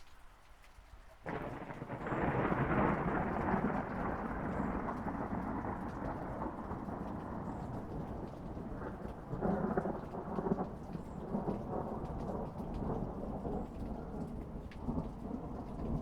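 A thunderclap breaks suddenly about a second in and rolls on as a long rumble, swelling again midway, with rain falling throughout.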